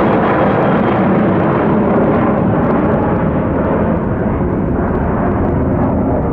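Airbus A320-200 jet engines at takeoff power as the airliner departs, a loud steady rumble that eases slightly in the second half.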